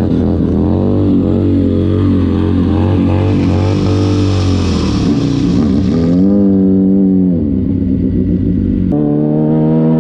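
Motorcycle engine revving hard, its pitch rising and falling repeatedly while the bike is being slid around. A rushing hiss sits over it in the middle, and the engine note jumps to a new steady pitch near the end.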